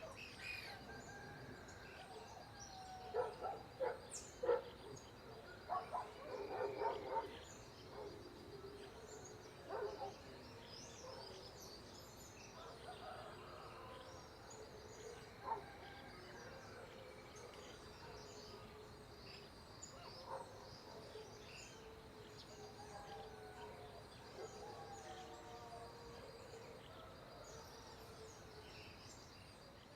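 Faint natural ambience: many small bird chirps over a steady high-pitched drone, with a cluster of louder calls about three to seven seconds in.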